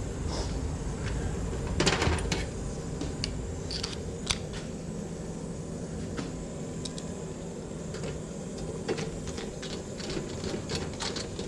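Steady low hum from the switched-on humidifier and HVAC equipment, with scattered light clicks and taps of handling; a short rustle about two seconds in.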